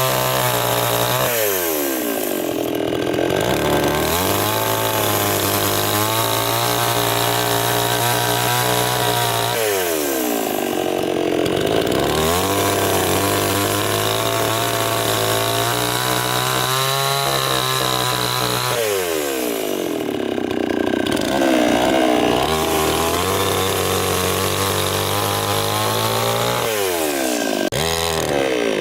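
Chainsaw running continuously, its engine pitch dropping sharply and climbing back about every nine seconds as it works under changing load.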